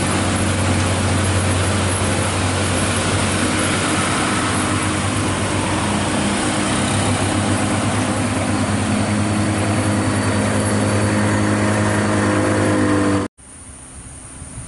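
Heavy truck's diesel engine running steadily at a constant pitch, loud and close. It cuts off abruptly about 13 seconds in, leaving a much quieter background.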